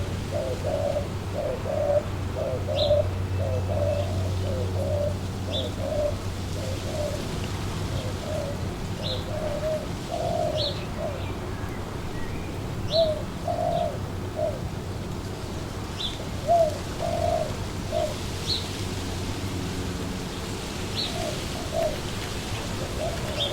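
Pigeons cooing over and over in short low phrases, with a small bird giving brief high chirps every second or two, over a steady background of wind and a low hum.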